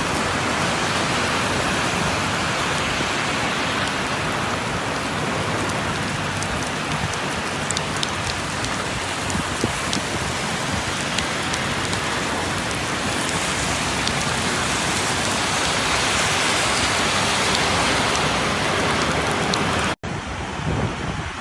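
Heavy rain pouring down: a dense, steady hiss with scattered sharp ticks of drops striking. Near the end it cuts off abruptly and gives way to a quieter, gusty noise.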